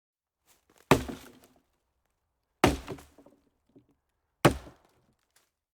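Three sharp, heavy knocks a little under two seconds apart, each followed by a brief rattle.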